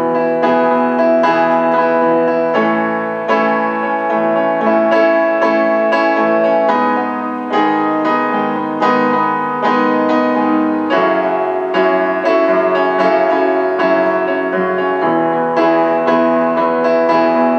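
Piano playing an instrumental passage of a slow pop ballad, sustained chords changing every few seconds, with no singing.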